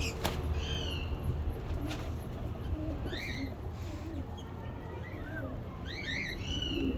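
Caged aviary birds calling: pigeons cooing, with short high chirps from smaller birds several times over.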